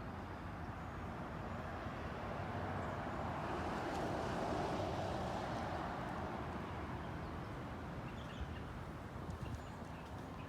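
A car passing by, its engine and tyre noise building to a peak about halfway through and then fading away.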